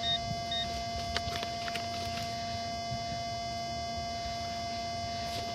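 Minelab X-Terra 705 metal detector giving two short high beeps over a steady electronic hum of several pitches, with a few faint clicks from digging in the ground.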